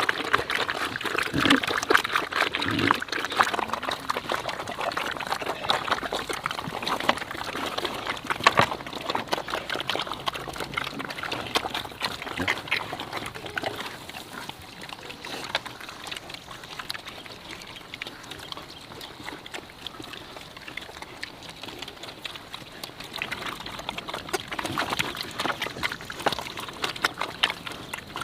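Pigs eating wet cabbage feed, with busy wet slurping and smacking and a couple of short grunts in the first few seconds; it gets quieter about halfway through.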